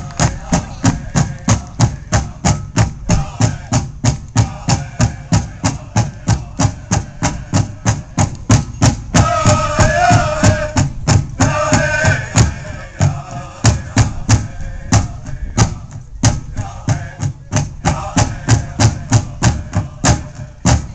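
Powwow drum beaten in a steady fast pulse, about three strokes a second, with singers' voices wavering over it and strongest in the middle: the song for a hoop dance.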